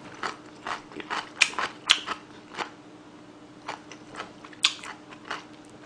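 Close-up chewing of a mouthful of instant jjajang (black-bean sauce) noodles, with wet mouth smacks and clicks at irregular intervals.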